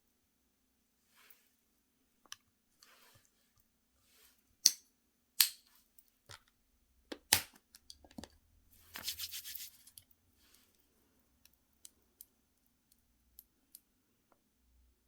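Small handling noises from unboxing gel polish products: a run of sharp clicks and taps, two of them loud, then a short crisp rustle of packaging about nine seconds in, and a few faint ticks near the end.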